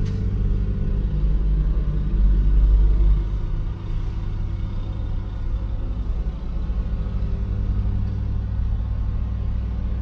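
A large engine running steadily, louder for the first three seconds and then settling a little lower.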